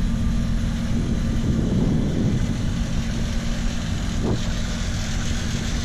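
The straight-six engine of a 1967 Ford Mustang idling steadily, a smooth, even purr.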